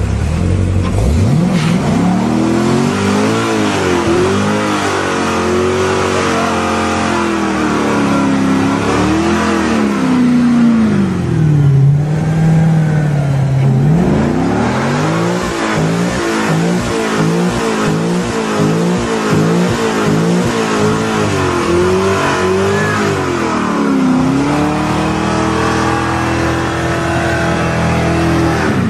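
Chevrolet Corvette V8 revved hard during a tyre-smoking burnout. The engine note climbs, swings up and down, drops low for a couple of seconds in the middle, then rises and falls in quick repeated revs before holding high.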